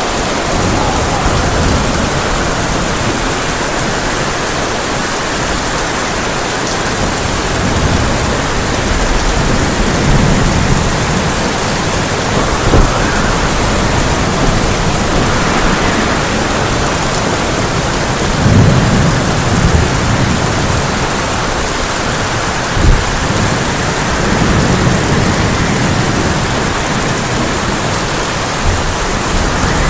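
Heavy rain pouring steadily onto a tin roof, with thunder rumbling in several long rolls and a few short sharp cracks.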